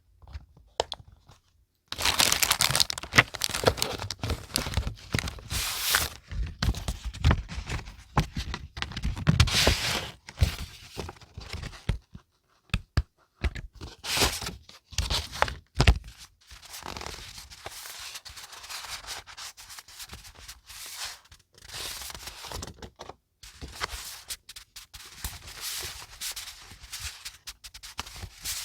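Paper being handled close up: rustling, rubbing and tearing. It starts about two seconds in and is busy and loud at first. About halfway through it settles into softer rustling.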